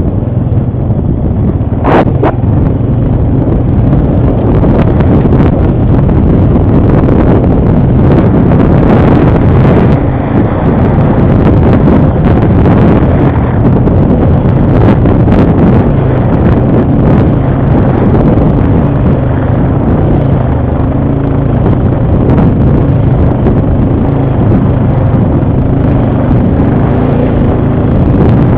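ATV engine running steadily under way, its pitch shifting a little with the throttle. There is one sharp knock about two seconds in.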